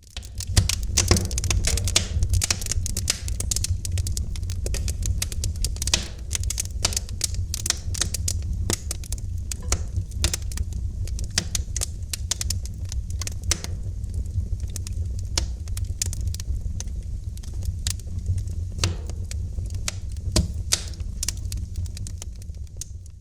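Fire in a fireplace crackling: a dense, irregular run of sharp pops and snaps over a low, steady rumble of the flames.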